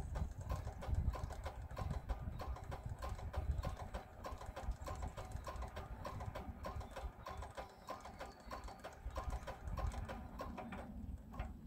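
Petter AC1Z single-cylinder air-cooled diesel engine running, with a steady, even knock of about four or five beats a second over a low rumble. The knocking stops shortly before the end.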